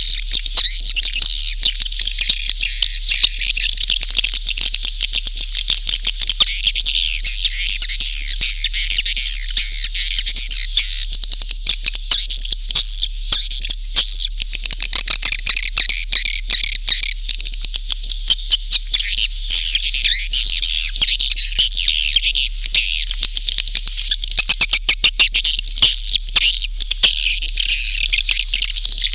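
Dense chorus of edible-nest swiftlets chirping and twittering nonstop, with many rapid clicks through it: a swiftlet-house lure call recording. A low steady hum runs underneath.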